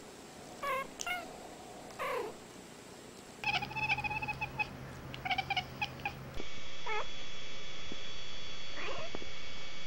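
Cats chirping and meowing. There are a few short chirps falling in pitch in the first two seconds, then a quick run of rapid repeated calls, then two short falling meows over a steady high-pitched hum.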